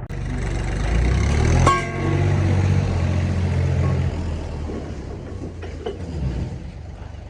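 Bus engine revving up and running, with a sharp clack a little under two seconds in, then fading away gradually.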